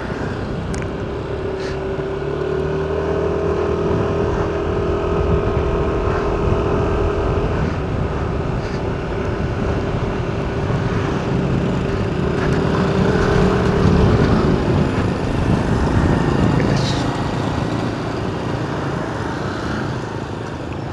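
Car being driven: steady engine and road noise, with a held engine drone that fades out about seven seconds in and returns louder a few seconds later.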